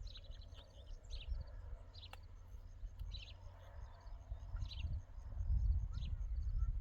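Small birds calling outdoors: short, high, falling chirps repeating roughly once a second, with a faint fast ticking trill above them, over a steady low rumble.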